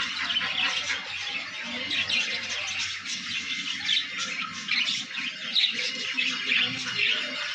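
Parrots chirping and squawking, short high calls following one another densely and overlapping without a break.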